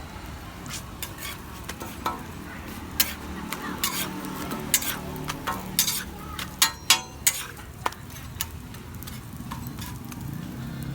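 Metal spatula clinking and scraping on a flat griddle while roti canai fries, in sharp irregular clicks over a low steady rumble.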